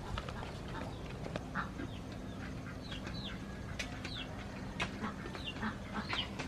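Birds calling: a series of short calls that rise and fall in pitch, repeated every second or so, with a few sharp clicks over a faint low steady hum.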